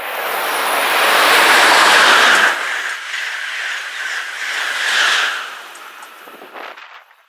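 Amtrak passenger train passing at speed: a rushing noise of wheels on rail and moving air that builds to its loudest about two seconds in, stays strong for a few seconds, then fades away and cuts off near the end.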